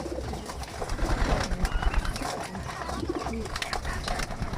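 Pigeons cooing in a loft, with scattered small clicks and a low rumble underneath.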